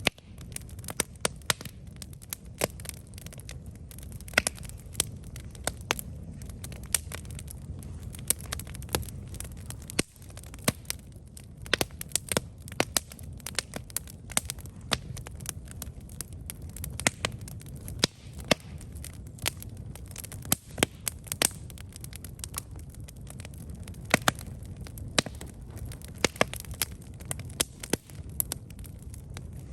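Campfire crackling: burning wood snapping and popping in many sharp, irregular clicks over a steady low rumble of the flames.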